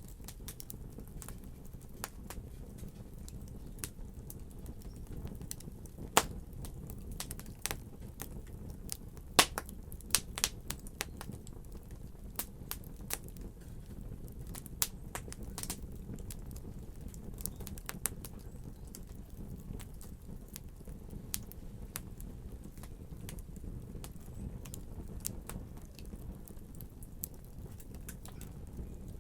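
Fire burning in a fireplace: a steady low rumble with irregular crackles and sharp pops, the loudest pops about six seconds in and a cluster of them around ten seconds.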